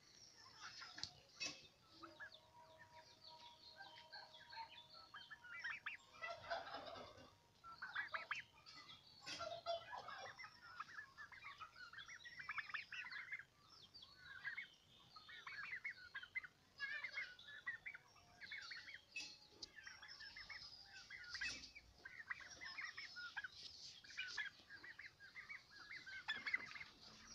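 A flock of domestic turkeys calling, with many short, high calls overlapping throughout.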